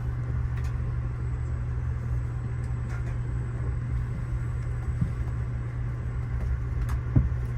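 Steady low rumble and hum of an Amtrak passenger train heard from inside the car as it rolls out of the station, with a couple of faint knocks.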